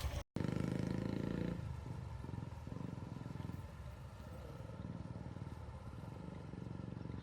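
An engine running steadily after a brief dropout, louder for about the first second and then even.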